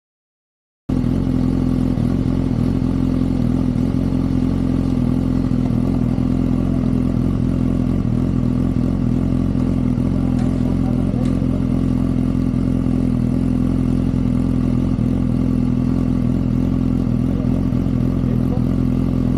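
Motorcycle engine running steadily at one unchanging speed, starting abruptly about a second in.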